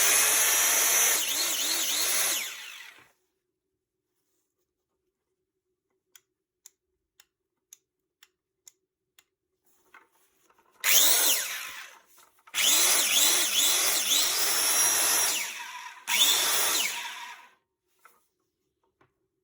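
Makita KS4000FX circular saw's motor running, then winding down about two to three seconds in. After a pause with a few faint ticks, it is switched on and off three more times, each start a rising whine and each stop a falling one, as the freshly overhauled saw is test-run.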